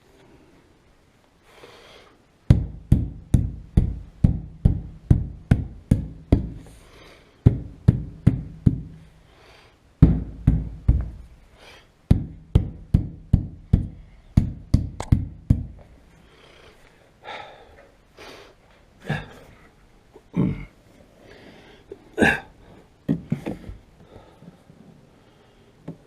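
Rapid rhythmic knocking, about three blows a second in several runs, as the rear window glass and its rubber seal are struck to seat the glass in the body opening. A few scattered softer knocks follow near the end.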